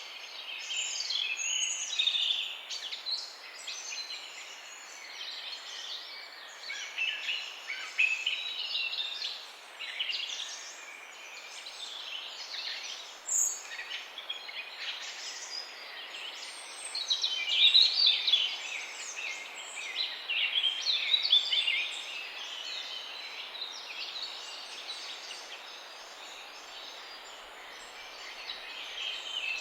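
Many small birds chirping and trilling together over a steady background hiss, the calls thickest and loudest about two-thirds of the way through.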